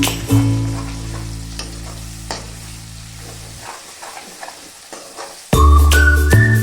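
Food frying and sizzling in a pan while it is stirred, with light scrapes of the spoon, heard mostly in a short gap in the background music. The music's held notes fade over the first few seconds and it starts again loudly about five and a half seconds in.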